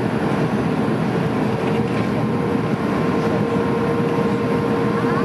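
Steady cabin noise inside an Airbus A310 airliner in flight: engine and airflow noise with a steady hum, and a short rising tone near the end.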